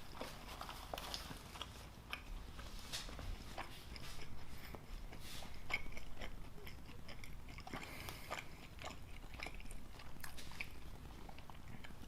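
A person chewing food close to the microphone: irregular soft clicks and smacks of mouth sounds throughout.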